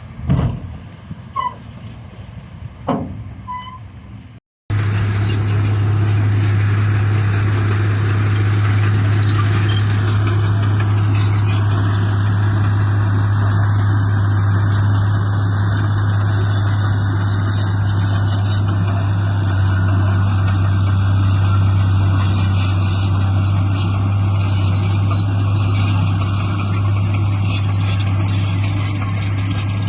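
Heavy diesel engine of earth-moving equipment running steadily with a deep, even drone. Before a brief dropout about four and a half seconds in, quieter mixed outdoor noise with a couple of knocks.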